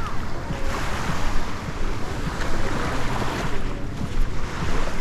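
Sea waves washing onto a sandy beach, coming in surges, with wind buffeting the microphone in a steady low rumble.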